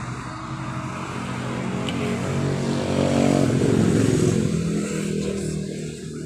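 A motor vehicle passing close by. Its engine note grows louder to a peak about three to four seconds in, then fades away.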